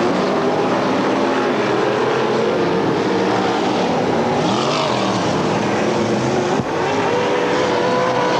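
Several dirt-track race car engines running at once, their pitches rising and falling as the cars accelerate and lift off around the track.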